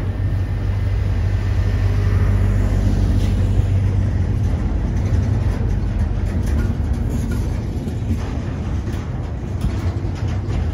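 Double-stack intermodal freight train rolling past close by: a steady, loud low rumble of the well cars' wheels on the rails.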